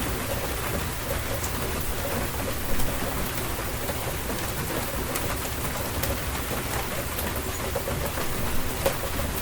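Steady rain falling, with individual drops ticking sharply close by and a steady low rumble underneath; the rain briefly grows louder about three seconds in.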